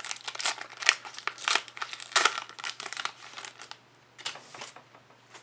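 Crinkling and rustling of plastic trading-card packaging being handled, a dense run of crackles that thins out, with one short final burst near the end.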